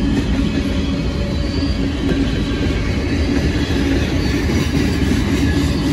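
Freight cars of a mixed train rolling past: a steady, loud rumble of steel wheels on rail with a constant hum through it.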